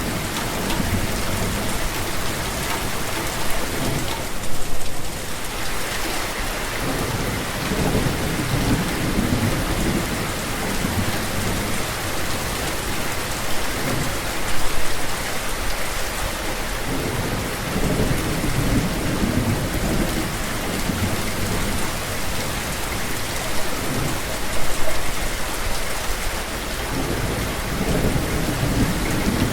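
Rain falling steadily, with a low rumble that swells and fades every several seconds and a few brief louder moments.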